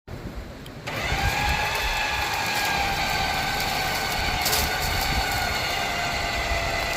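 Engine-driven machinery running steadily, coming up to full level about a second in with a steady mechanical whine of several tones over a low rumble.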